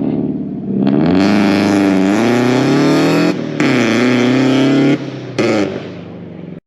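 Car engine accelerating hard, loud, its pitch climbing through one gear, dropping at a gear change, then climbing again, with a short final blip of throttle near the end.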